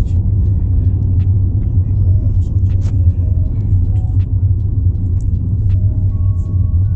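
Steady low rumble of a moving car, with a few faint short clicks.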